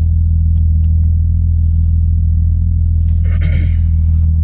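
A car engine idling steadily as it warms up, with a deep, even hum. A short burst of noise cuts in about three seconds in.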